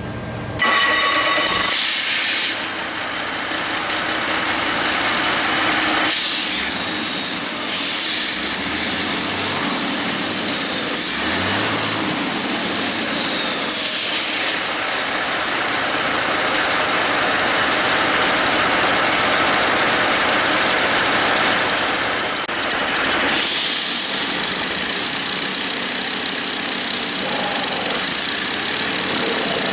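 Detroit Diesel Series 60 14.0-litre EGR inline-six diesel engine starting in the first two seconds, then running steadily. A loud hiss lies over the engine note, with faint whistles gliding up and down in pitch.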